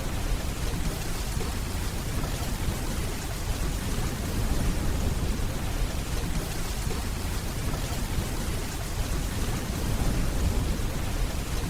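Steady rainfall with a low, rolling rumble of distant thunder underneath, swelling slightly twice.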